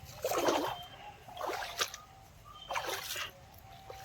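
Feet wading through shallow pond water, splashing and sloshing with each step, three strides about a second apart.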